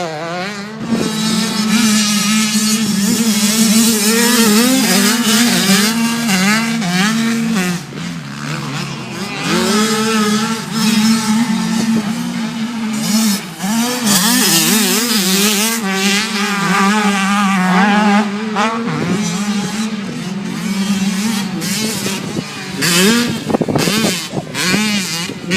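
A motor vehicle's engine running hard, its pitch rising and falling over and over as it revs up and eases off.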